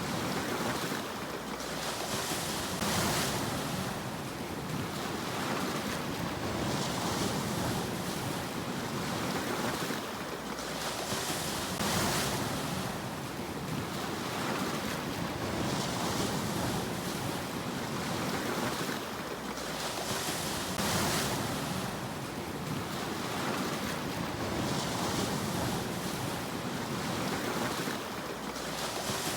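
Sea waves washing onto a shore in a steady hiss, with a swell of surf rising and falling every few seconds.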